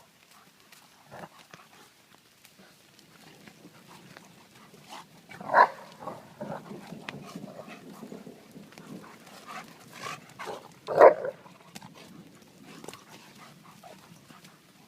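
Dogs at play, with two short loud bark-like calls about five and a half and eleven seconds in, and softer scuffling between them.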